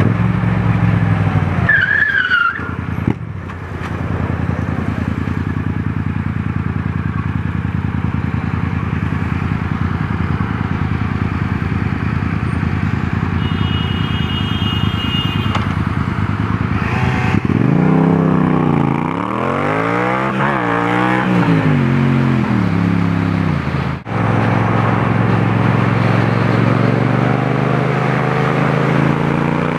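Yamaha MT-07's parallel-twin engine with heavy wind noise on the helmet microphone. The engine runs steadily, then after about 17 seconds its pitch rises and falls several times as the bike accelerates through the gears.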